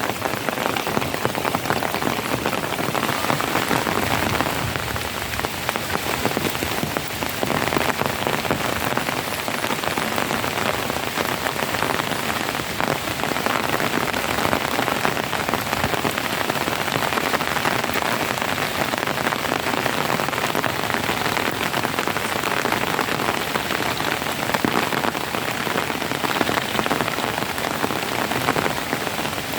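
Steady heavy rain falling and pattering on surfaces, a dense even hiss with fine drop crackle throughout.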